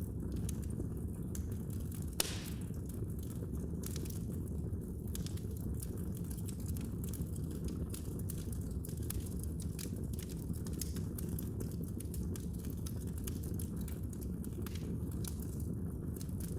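Wood fire burning in a fireplace with a steady low rumble and scattered crackles, one sharper pop about two seconds in.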